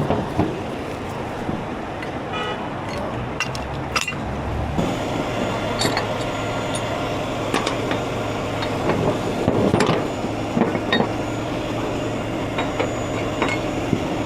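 Heavy truck engine running steadily, with scattered metallic clanks and rattles.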